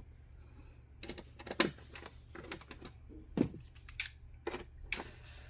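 Irregular light clicks and taps of a dishwasher's metal door panels and screws being handled and fitted together. A steady hiss comes in near the end.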